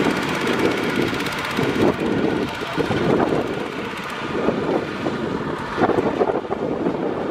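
Kubota DC-70 Plus combine harvester running, a loud, steady mechanical noise whose level wavers slightly.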